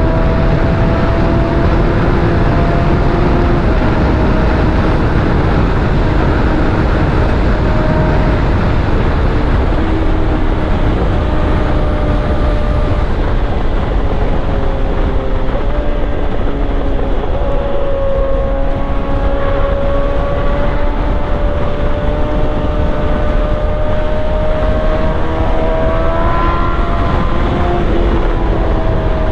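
Yamaha R1 inline-four sport bike engine running at a steady cruise, its note holding fairly even with small rises and dips in pitch, over a heavy rush of wind and road noise.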